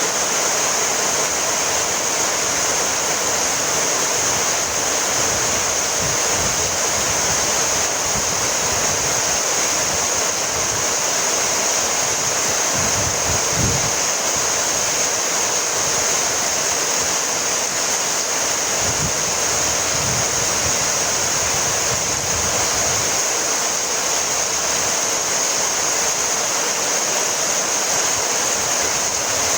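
Heavy rain falling steadily, an even hiss of rain without a break, with a couple of brief low gusts of wind on the microphone.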